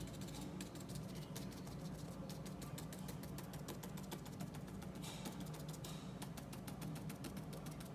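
Paintbrush rapidly tapping oil paint onto paper in quick light clicks, over a steady low hum.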